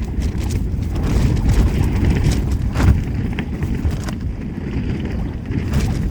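Gale-force wind buffeting a Vango Starav tent, heard from inside as a heavy, gusting low rumble. A few sharp snaps come about two to four seconds in.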